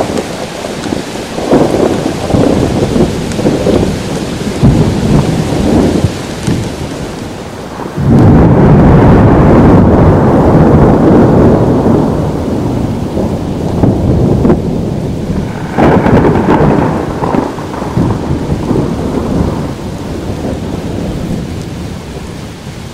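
Thunderstorm: thunder rumbling over steady rain. A loud clap breaks in suddenly about eight seconds in and rolls on for several seconds before fading. A second clap comes near the end and dies away.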